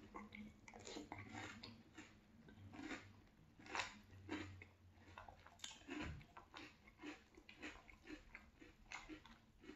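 Close-up chewing of crunchy French Toast Crunch cereal in milk: a run of soft, crisp crunches about two a second, with one louder click just before the middle.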